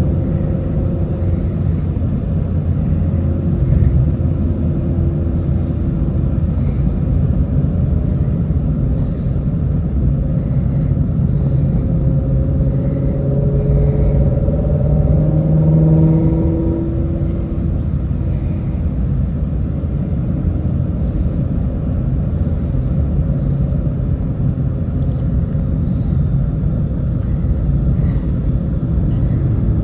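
Ford Shelby GT350's 5.2-litre flat-plane-crank V8 and road noise heard from inside the cabin while driving, a steady low rumble. About halfway through, the engine note climbs for a few seconds as the car pulls, then falls back.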